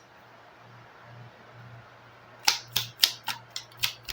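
A quick run of light clicks and taps, about eight in a second and a half, starting about two and a half seconds in, over a faint steady hum.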